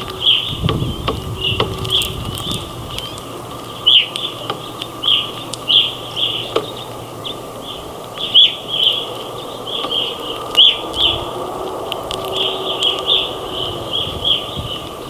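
Flock of grosbeaks at a feeder giving short chirping calls, repeated irregularly about once or twice a second, with a few sharp clicks and a faint steady hum beneath.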